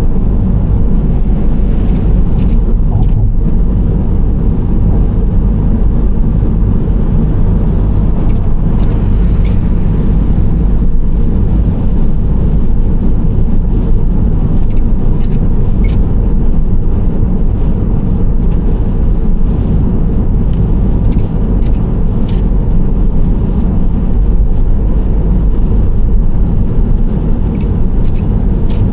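Nissan Serena C25 minivan cruising, a steady deep rumble of road and engine noise with no rise or fall in speed. Faint short ticks come through now and then.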